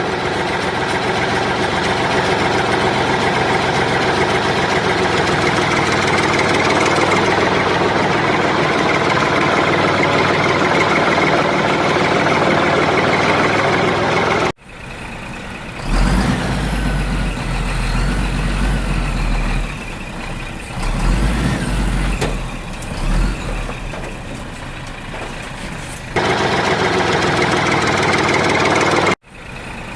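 Steady engine-like running. It cuts off abruptly about halfway through and gives way to a quieter, uneven mechanical sound with deep thuds. It cuts back to the steady running near the end.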